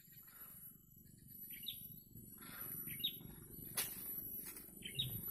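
A bird calling with short rising chirps, four of them about a second apart, over steady rustling and handling noise, with one sharp click a little under four seconds in.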